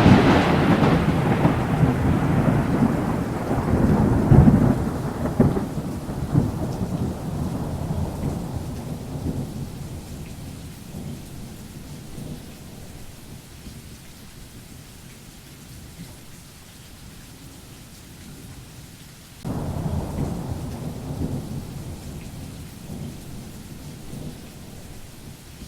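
Thunder rumbling, loud at first and dying away over about ten seconds, then a second rumble breaking in suddenly about three-quarters of the way through and fading, over the steady hiss of heavy rain.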